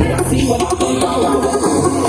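Electronic dance music with heavy bass played loud through a large PA system of subwoofers and line-array speakers during a sound check.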